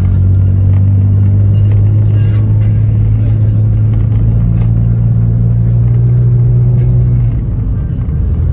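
Backhoe's diesel engine running loud and steady, its pitch rising a little partway through and dropping back near the end, with faint knocks over it.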